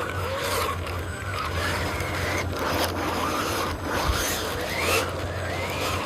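Radio-controlled model truck's small electric motors and gearing running, a steady low hum under a scraping mechanical noise, with whining squeals that rise and fall in pitch several times as the motor speed changes.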